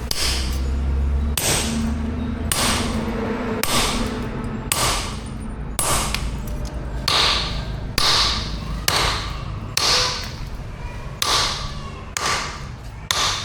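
Blacksmith's hammer striking metal on an anvil in slow, even blows, about one a second, each with a short metallic ring. A low hum runs under the first second and a half, then stops.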